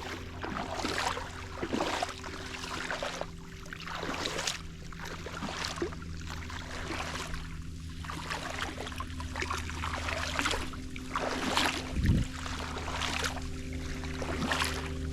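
A small electric motor hums steadily on a boat while water splashes and sloshes in repeated swishes, with a low thump about twelve seconds in.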